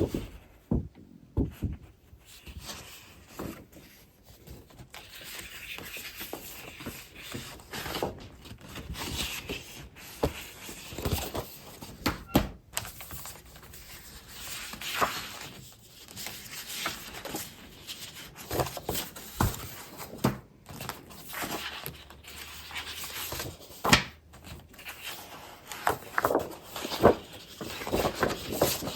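Scrapbooking and paper-craft supplies being handled: paper and packaging rustling, crinkling and sliding, with irregular light knocks as items are picked up and set down.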